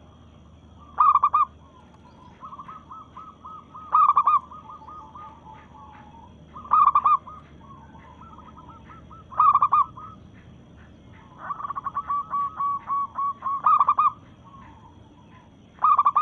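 Zebra dove (perkutut) cooing: loud short coos about every three seconds, with softer rapid cooing runs between them and a longer quick series of coos about two-thirds of the way through. It is a local female calling to males.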